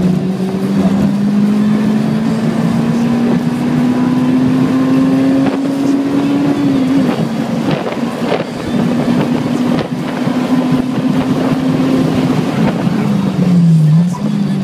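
Honda S2000's four-cylinder engine under load on track: a steady note climbing slowly through a gear, stepping down with a shift about seven seconds in, holding, then dipping and picking up again near the end, with wind noise over it.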